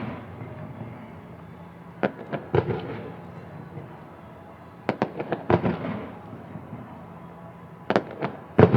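Aerial fireworks shells bursting in the sky, in clusters of several sharp bangs about every three seconds, with a steady background haze between the volleys.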